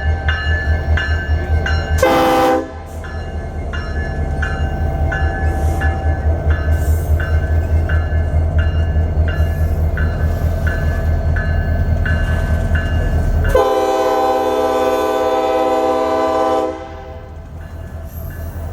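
Union Pacific 1989, an EMD SD70-series diesel locomotive, passing with a heavy engine rumble and a bell ringing about twice a second. Its air horn gives a short blast about two seconds in and a long blast of about three seconds near the end, as the rumble drops away.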